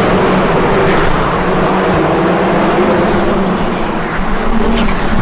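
Car engines running loudly with a steady drone, and a few brief whooshes of cars going past.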